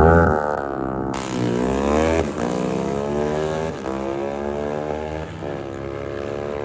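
Honda CB 300 motorcycle engine under way. It revs and accelerates, with short breaks about every second and a half where the pitch drops, like gear changes.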